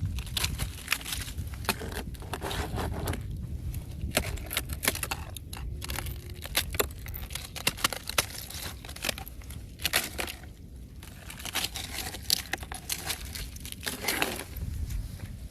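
Freshly formed ice crackling and crunching: a dense, irregular run of sharp snaps and cracks over a low rumble.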